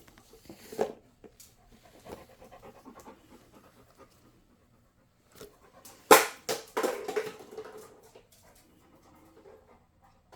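A dog panting, with scattered soft sounds of movement and a loud sudden sound about six seconds in.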